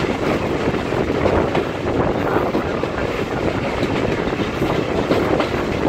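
Train carriage running along the track, a steady rumble of wheels on rail with faint clicks, mixed with wind rushing past an open door.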